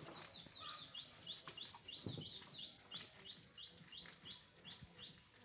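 A bird chirping over and over, short high chirps about three a second.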